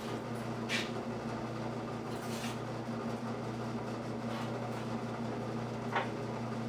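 A steady electrical hum from shop equipment, with a few short, light clicks.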